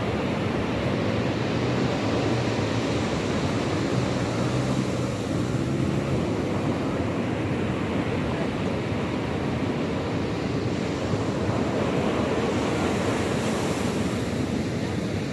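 Sea surf washing steadily onto the shore, with wind on the microphone; a brighter hiss swells near the end.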